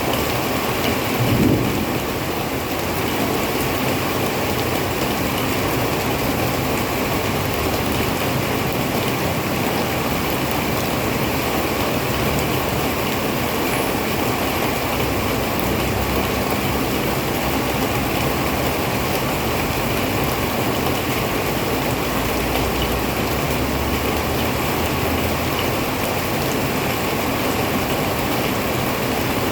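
Heavy rain falling steadily, with a short low thump about a second and a half in and a low rumble about three-quarters of the way through.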